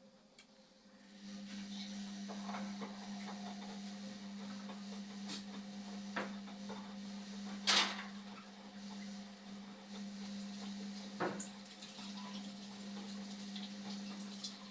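Indesit washing machine starting up about a second in: a steady hum with a wash of water noise, broken by a few sharp clicks or knocks.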